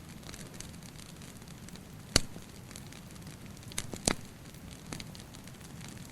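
Wood fire crackling over a steady low rumble, with frequent small ticks and two loud sharp pops, about two and four seconds in.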